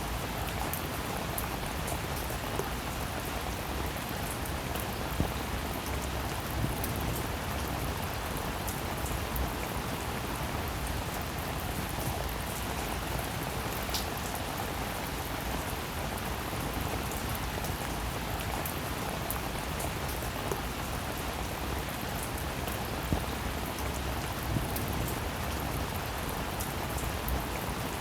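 Steady rainfall: a constant hiss of rain with individual drops ticking through it, a few of them louder and closer.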